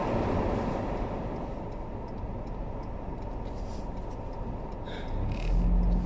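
Car driving on a snowy road, heard from inside the cabin: a steady rumble of tyres and engine, growing louder with a low engine hum about five seconds in.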